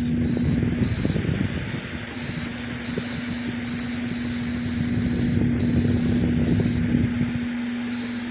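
Electric stand fan running, a steady hum with rushing air, overlaid by a series of short high electronic beeps of uneven length. The low rushing noise drops away about seven and a half seconds in.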